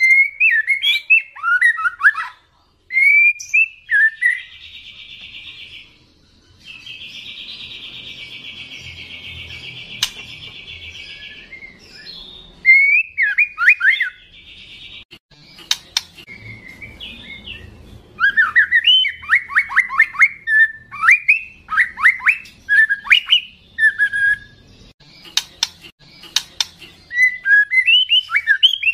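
Young white-rumped shama (murai batu trotol) singing loudly: short phrases of sweeping whistles, then a long buzzy rattle held for several seconds, then fast runs of falling whistled notes mixed with sharp clicks near the end.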